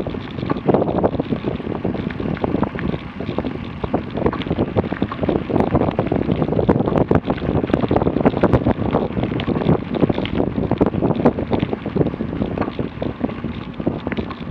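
Wind noise on the microphone of an electric bike riding along a gravel trail, over a continuous crunch of the tyres on gravel, full of many small clicks and rattles.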